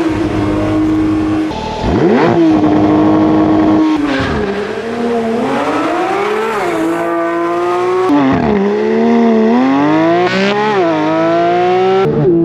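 Porsche 992 GT3's 4.0-litre flat-six engine and exhaust revving hard, its pitch climbing and dropping several times with a few abrupt jumps.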